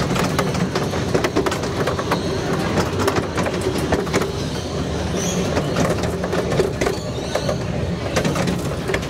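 A miniature railway train running along its track. There is a steady low rumble from the carriages and frequent sharp clicks of the wheels over the rails.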